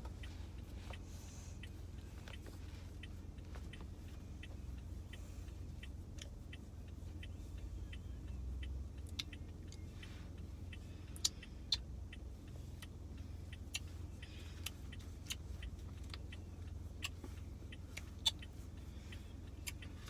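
Low steady rumble of a car on the move, with scattered light clicks and small rattles.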